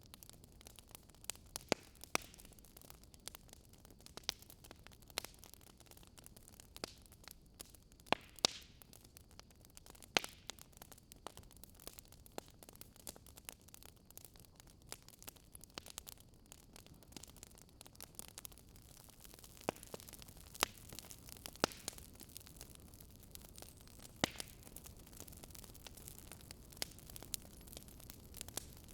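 Wood fire burning with a soft hiss and irregular sharp crackles and pops, a few each second.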